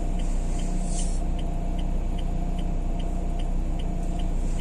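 Renault Kangoo's engine and road noise droning steadily inside the car's cabin, with an even ticking about two or three times a second.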